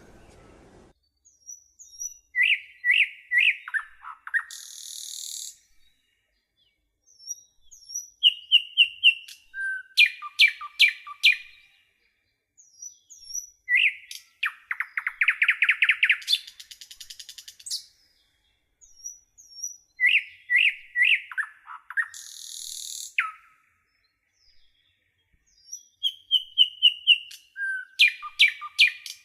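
A songbird singing the same phrase over and over, about every six seconds: short clear whistled notes, quick trills and a brief harsh hissing burst, with silent pauses between phrases.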